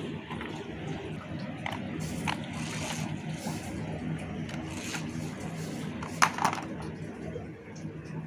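Small electric gear motor of a homemade RC tractor running steadily, with scattered clicks and scraping, and a sharp click about six seconds in.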